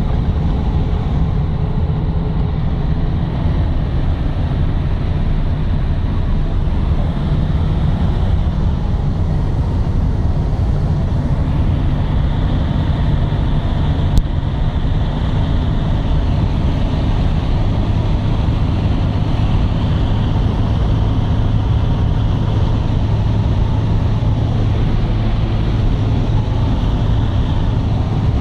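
Scania 113 truck's straight-six diesel engine running steadily with a loud, even drone, with one short click about halfway through.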